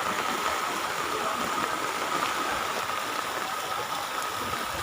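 A steady rush of water, even and unbroken throughout.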